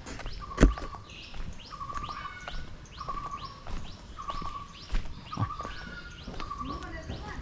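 A bird calling over and over, about once a second, each call a short steady note with quick falling whistles above it. A sharp knock comes about half a second in, and softer knocks follow around five seconds in.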